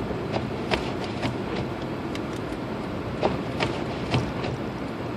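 Steady road and running noise of a Lexus IS250 AWD driving through snow, heard inside the cabin, with scattered light clicks and ticks on top.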